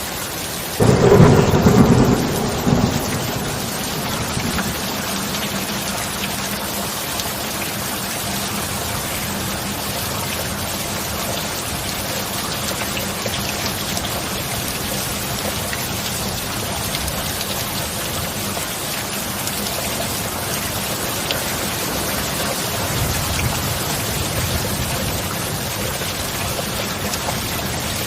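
Steady heavy rain with a loud clap of thunder about a second in that rumbles away within a few seconds, and a fainter roll of thunder near the end.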